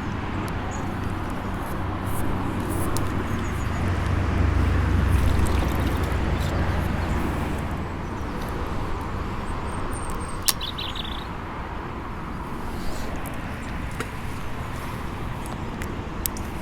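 Outdoor lakeside ambience: a low rumble that swells over a few seconds and then fades, with a few bird chirps and a single sharp click about ten seconds in.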